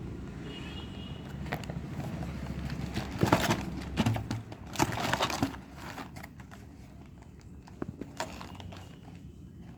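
Snack packaging being handled, crinkling and rustling in two bursts about three and five seconds in, then a few small clicks and taps.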